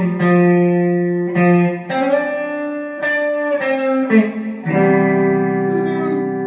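Guitar playing a slow instrumental passage, with the notes changing every second or so. About two-thirds of the way in, a chord is struck and left ringing to the end.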